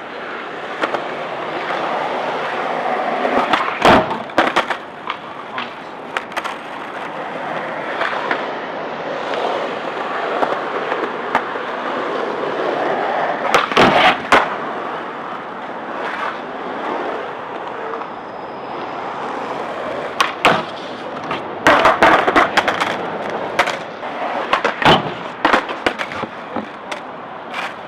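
Skateboard wheels rolling and grinding in a continuous rumble, broken by sharp clacks of the board striking, in clusters several times.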